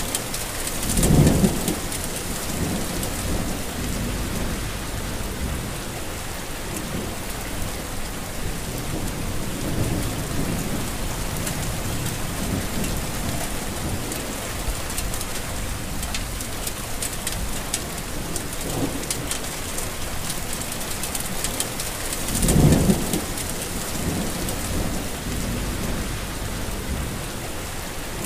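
Heavy rain falling steadily, with short low rumbles about a second in and again near the end, and fainter ones in between.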